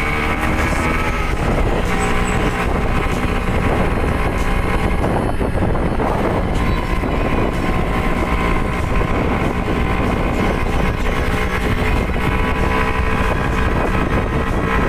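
Suzuki Shogun's two-stroke single-cylinder engine running steadily as the motorcycle rides along.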